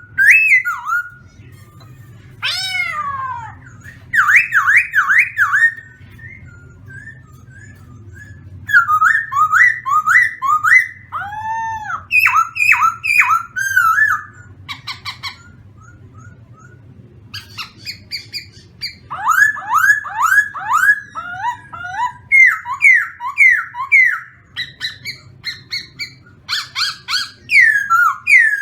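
A songbird singing loud, clear whistled phrases: runs of quick, sliding notes repeated several times a second, in bursts separated by short pauses.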